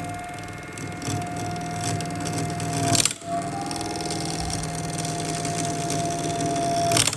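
A woodworking power tool running steadily with a constant whine over a low hum, with two short, loud rasping bursts, about three seconds in and again near the end.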